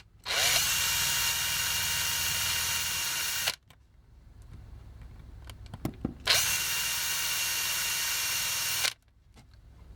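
Makita cordless drill with a number 3 bit drilling out a rivet in a plastic toy, run in two steady bursts of about three seconds each with a pause and a few small clicks between.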